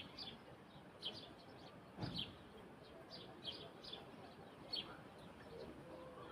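Small birds chirping in the evening: short, high, falling chirps repeating every half second or so. There is a dull low thump about two seconds in.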